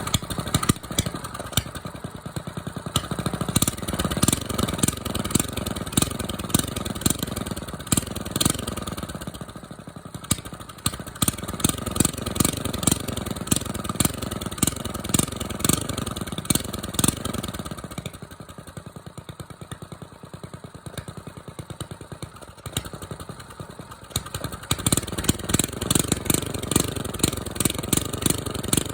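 Small choke-started engine revved over and over with throttle blips, its pitch climbing and falling with each blip. Past the middle it settles briefly to a quieter, slower idle, then the revving picks up again near the end.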